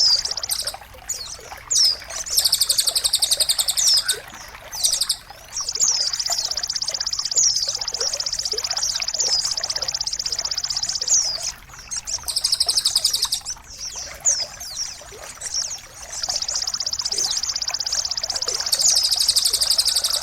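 Songbird singing long, fast trills that last a few seconds each, with short gaps between them and quick downward-sliding whistle notes running through them, over a low trickle of running water.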